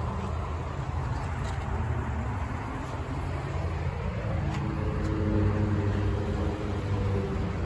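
A motor vehicle engine running with a steady low rumble, its hum growing stronger about halfway through, with a few faint clicks.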